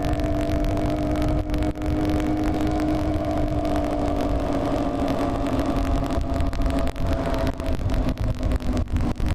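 Yamaha FZ6 Fazer 600's inline-four engine running under way, holding a steady pitch and then slowly dropping in revs as the bike eases off. Heavy wind buffeting on the microphone runs underneath.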